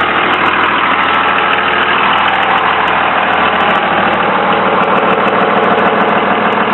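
2001 Dodge Ram 2500's Cummins 24-valve H.O. 5.9-litre turbo diesel idling steadily.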